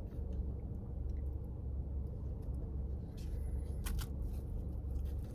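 A man chewing a mouthful of French dip roast beef sandwich, with a couple of short sharp mouth clicks about three and four seconds in, over a steady low hum inside a car.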